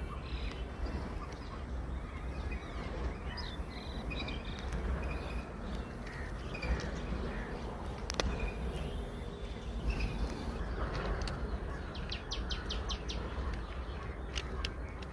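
Birds chirping and calling at intervals over a steady low rumble. Near the end comes a quick run of about seven sharp high notes.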